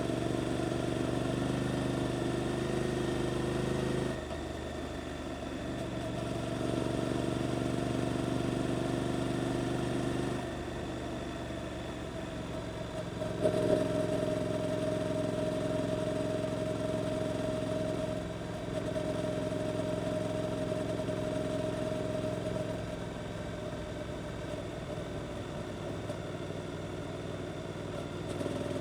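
Suzuki GSX-8S parallel-twin engine through an Arrow aftermarket exhaust, running under way at a fairly steady speed. The throttle eases off and picks up again several times, with a brief louder burst about halfway through.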